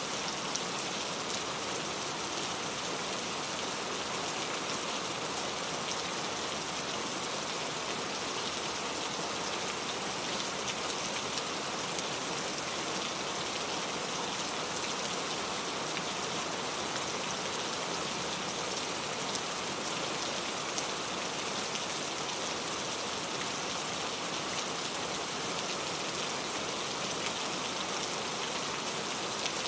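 Steady rain falling, a dense even hiss of drops with many small patters.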